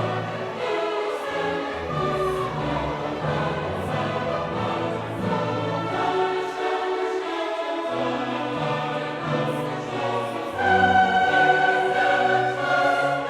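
Background classical music: a choir singing with an orchestra in held notes, swelling louder about two-thirds of the way through.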